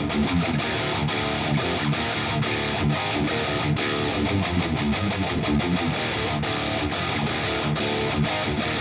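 Jackson Roswell Rhoads electric guitar played through an amplifier, a steady run of quick picked notes and strums.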